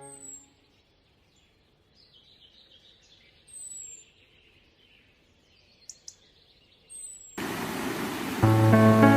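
Birds chirping faintly, short high chirps that fall in pitch, over quiet ambience. About seven seconds in, an even rain hiss starts suddenly, and soft music with held notes comes in near the end.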